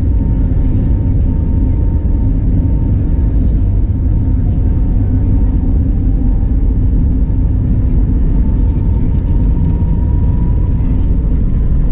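Airbus A320neo's CFM LEAP-1A turbofans heard inside the cabin as a steady low rumble, with a faint whine that rises slightly near the end.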